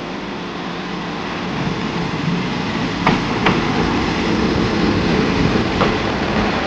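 Watarase Keikoku Railway diesel railcar pulling into the station close by, its engine and wheels on the rails rumbling louder as it nears. A few sharp clanks come about three seconds in and again near the end.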